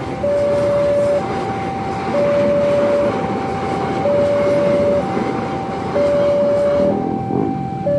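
Railroad crossing warning alarm sounding a repeating two-tone signal, alternating low and high tones each held about a second, over the loud rumble of an Argo Parahyangan passenger train passing close by.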